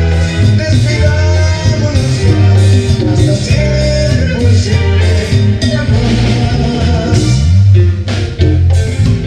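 Tropical band playing a romantic song: a strong bass line, drums, congas, guitar and keyboards at a steady beat.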